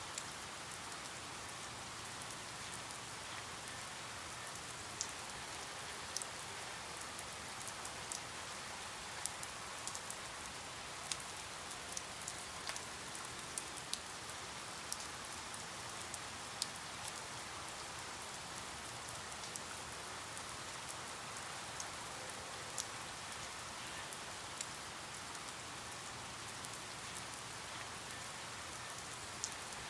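Steady rain falling, an even hiss with frequent sharp drips and taps of individual drops hitting a surface.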